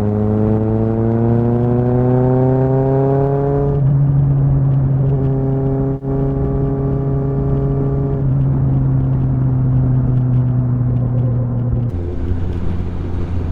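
Kawasaki ZXR's inline-four engine running under way, its note rising in pitch over the first few seconds and then holding steady, with a brief dip about six seconds in and a drop in pitch near the end. The exhaust note is dirty and raw.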